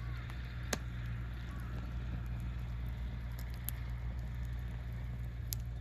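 Wood campfire crackling, with a few sharp pops (the loudest about a second in, others near the middle and the end), over a steady low rumble.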